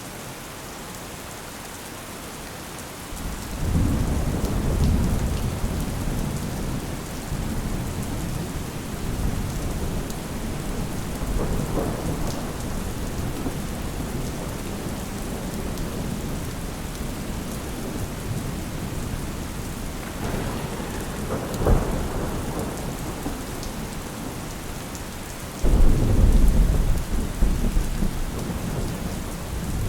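Steady rain falling, with rolling thunder: a low rumble builds about three seconds in and rolls on. A sharp crack comes about two-thirds of the way through, and a heavier roll of thunder starts near the end.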